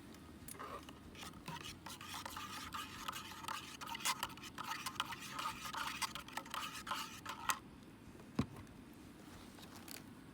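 Utensil stirring and scraping in cookware, a quick run of small clicks and scrapes lasting about seven seconds that stops abruptly, followed by a single knock.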